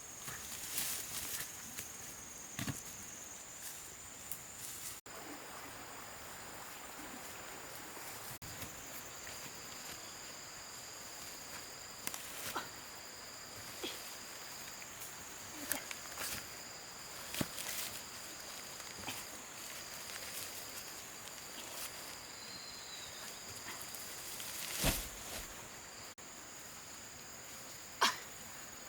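Outdoor ambience: a steady high insect drone, with scattered light knocks and clicks and two louder knocks near the end.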